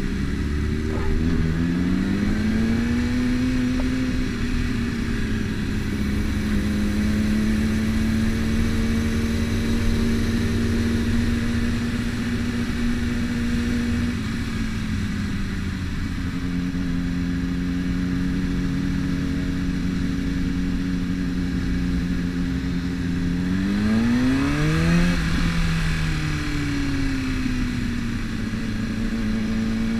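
Sport motorcycle engine running under the rider through city traffic: its pitch dips and climbs near the start, holds steady for a long stretch, eases down about halfway, then climbs sharply and falls back a little after 20 seconds in, and climbs again near the end.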